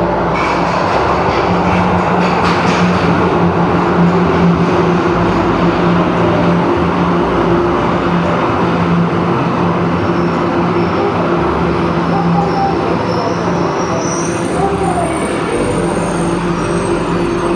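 Electric train running steadily, a loud even rumble with low hums, and a high thin squeal from the wheels or brakes for a few seconds near the end.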